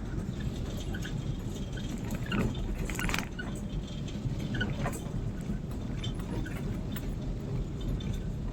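Rain ambience: a steady low rumble with scattered light ticks and taps, plus a few brief squeaks.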